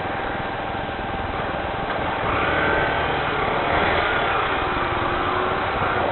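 Steady rain hiss, with a motor vehicle's engine passing by, louder from about two seconds in.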